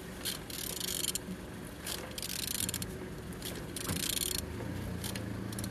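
A removed Hyundai G4EE 1.4-litre petrol engine being turned over by hand, in a few short clicking, scraping strokes about a second and a half apart. It turns freely.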